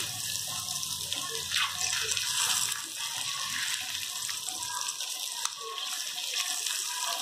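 Scored boiled eggs frying in hot peanut oil with chilli-powder masala, a steady sizzling hiss with small crackles as the masala cooks onto the eggs.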